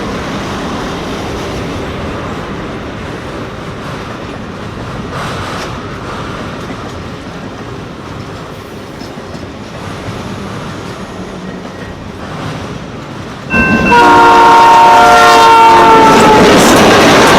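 The Royal Canadian Pacific train rolling along the track with wheel clatter, then a loud multi-note locomotive horn blasts about three-quarters of the way through, its pitch falling slightly.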